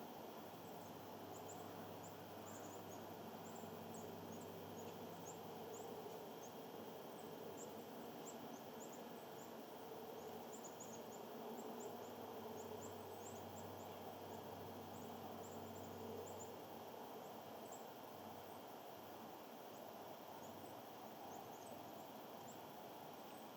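Faint outdoor ambience with many short, very high-pitched chirps from small birds, scattered over most of the first two-thirds, above a steady low hum that fades out about two-thirds of the way through.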